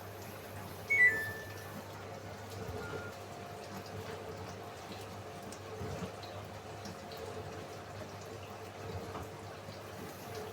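Samsung AddWash front-loading washing machine running its cycle: water sloshing and draining over a steady low hum. About a second in there is a short, falling electronic beep.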